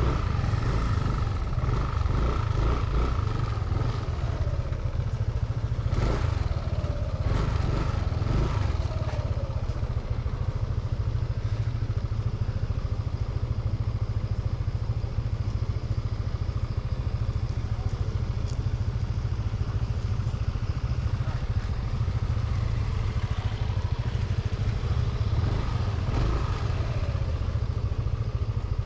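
Motorbike running along at riding speed, with heavy wind rumble on the microphone. A few clattering knocks come around six to eight seconds in.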